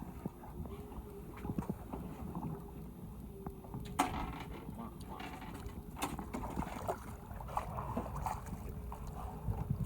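Fishing boat at sea: a steady low rumble, with sharp knocks about 4 and 6 seconds in.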